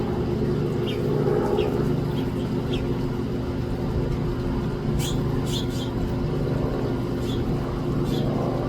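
A steady low mechanical hum runs throughout, with several brief high ticks or chirps scattered through it.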